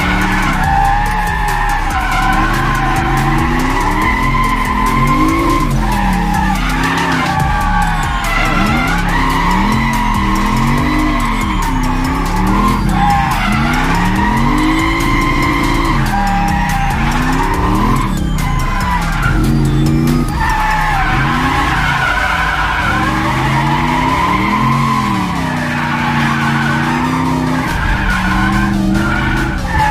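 Turbocharged LS V8 of a drift-built Lexus IS300 revving up and down again and again while the tyres squeal through continuous drift slides.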